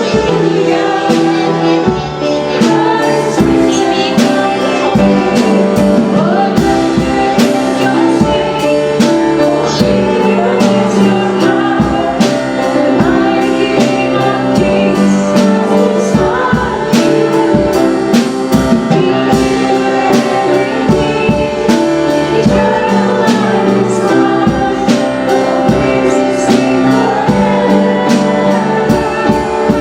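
Worship music: voices singing over a band with a steady percussion beat.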